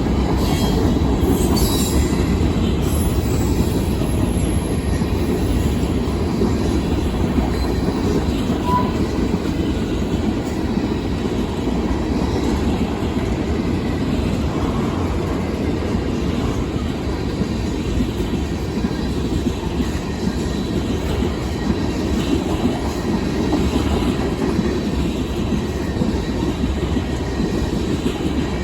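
Union Pacific manifest freight train rolling past, a steady loud rumble of steel wheels on rail, with a few brief high wheel squeals in the first few seconds.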